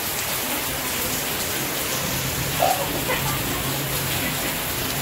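Rain pouring down steadily, a continuous even hiss.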